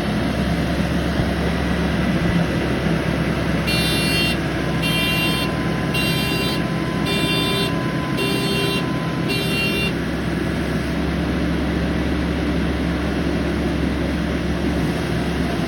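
Tractor engine running steadily while driving a rotavator. Partway through, a high electronic beeper sounds six times, about once a second.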